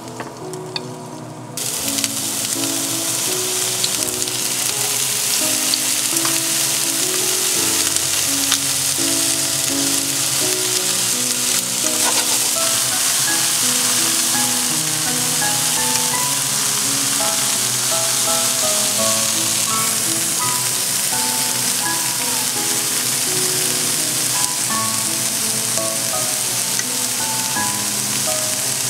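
Eggplant cubes frying in a nonstick frying pan, a loud steady sizzle that starts abruptly about a second and a half in, with chopsticks turning the pieces.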